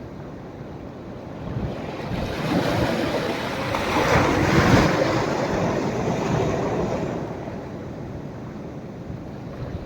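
Sea waves breaking on the shore as the tide rises: one wave swells about two seconds in, is loudest around the middle, and washes out over the next few seconds.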